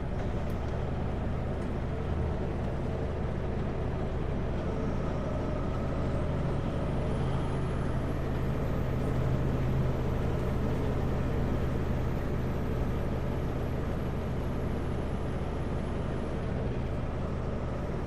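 Kenworth W900L semi truck's diesel engine running steadily while heading downhill, with a faint high whistle that rises about six seconds in and fades out near the end.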